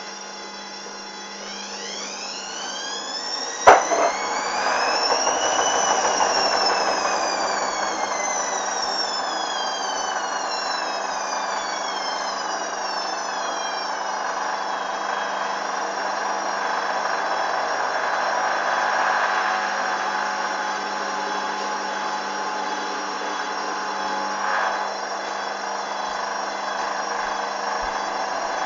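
Hoover Dynamic washing machine during its spin stage. The motor's whine climbs for the first few seconds, there is a sharp click about four seconds in, and then the whine slides back down over the next several seconds while the machine's steady running hum carries on.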